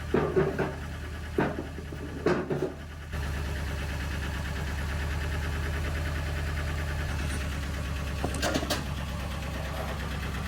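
A few sharp clanks and knocks, then an engine comes in abruptly about three seconds in and runs steadily at a low, even drone, with a couple more clunks near the end.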